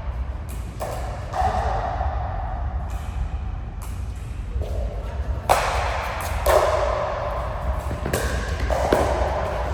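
Several sharp hits and thuds from ball play on an indoor court, each echoing in the large hall.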